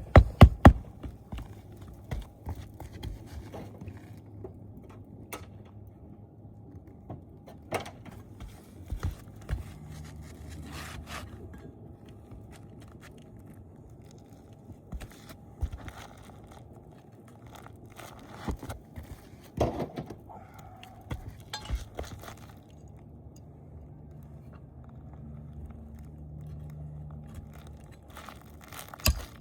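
Hand hammer striking roofing nails into asphalt shingles in quick runs of blows at the start and again near the end. Between the runs come scattered taps, scrapes and crackles of shingles being handled and slid into place.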